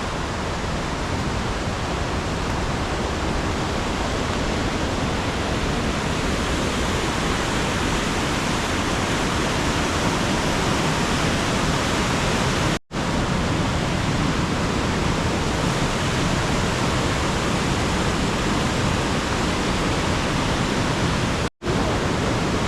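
A river in spate, swollen with storm rain, rushing steadily. The sound cuts out for an instant twice, once near the middle and once near the end.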